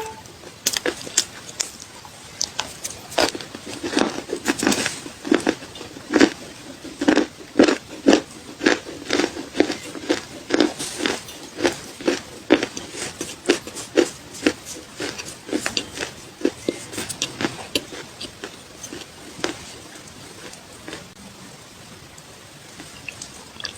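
Close-miked crunching and chewing of clay: a long, irregular run of sharp, brittle crunches, thinning out over the last few seconds.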